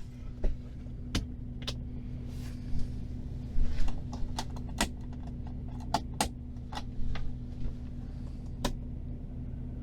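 Scattered clicks, knocks and light clatter of small items being handled while a coffee maker is set up, over a steady low engine hum.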